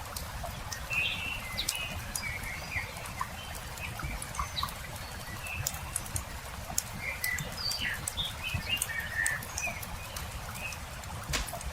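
Small birds chirping and twittering in short scattered calls over a crackling campfire, which gives frequent sharp pops and one louder pop near the end.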